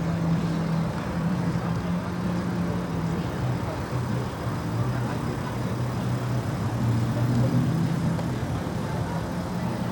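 Car engine running steadily at low revs, a continuous low hum whose pitch shifts slightly now and then, over a bed of outdoor noise.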